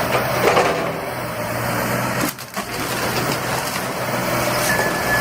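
Heavy machinery engine running under a dense crunching and cracking of material being broken. A vehicle's reversing beeper starts near the end.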